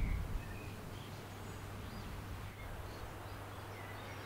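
Small birds chirping, short high calls scattered over a steady low outdoor background hum. A brief low thump, like wind buffeting the microphone, comes right at the start.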